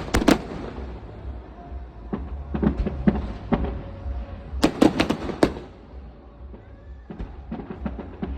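Fireworks exploding overhead: a string of sharp bangs and crackles, with a tight cluster at the start and another about five seconds in, and single bangs between and after.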